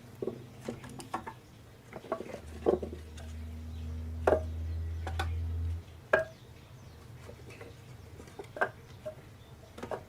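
Scattered light knocks and clicks, as of pieces of firewood being handled and set against each other, with a low steady hum for about three seconds in the middle that stops abruptly.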